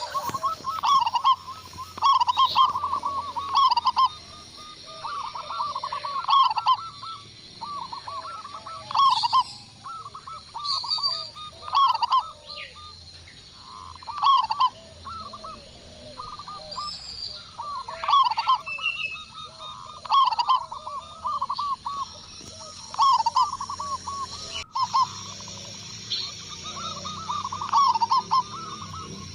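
Zebra doves (perkutut) cooing: quick runs of short, trilling coos repeated again and again.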